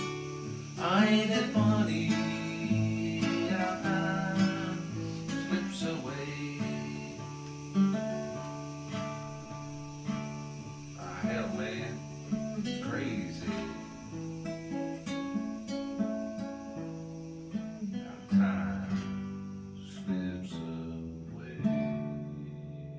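Acoustic guitar music with strummed chords, fading out near the end.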